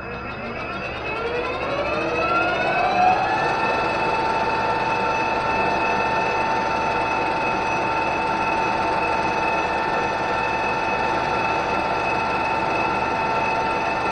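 A metal lathe starts up and its spindle drive spins up with a rising whine over about three seconds, then runs at a steady speed with a constant whine while a chamfer is cut on a washer.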